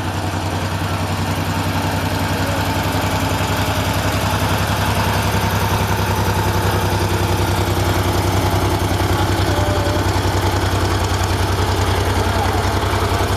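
Tractor engine running steadily with a fast, even throb and a deep hum, getting a little louder in the first couple of seconds and then holding level.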